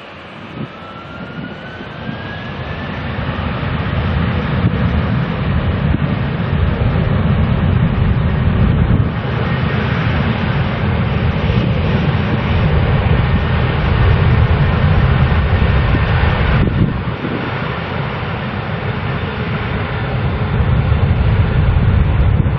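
Jet airliner engines passing close, building up loud over the first few seconds with a thin rising whine, then a heavy, steady rumble.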